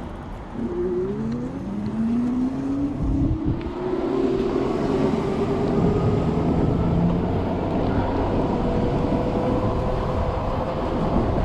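E-bike motor whine rising in pitch as the bike picks up speed, then holding steady while it cruises, over road and wind rumble.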